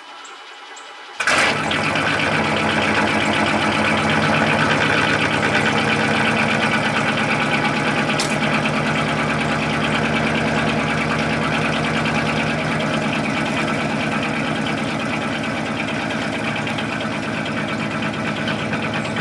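Chevrolet Silverado pickup engine starting on a battery that the owner believes is dying: it catches suddenly about a second in and then runs steadily, loud and even.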